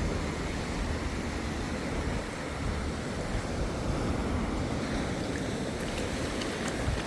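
Waves washing onto the beach, with wind buffeting the microphone in a steady low rumble.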